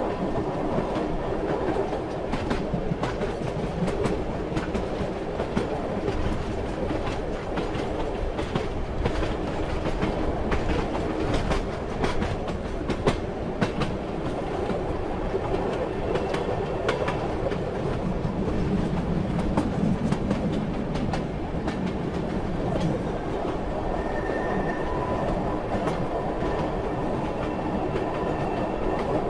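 Passenger train running along the track: the steady rumble of the moving carriage, with the wheels clattering over rail joints in irregular clicks.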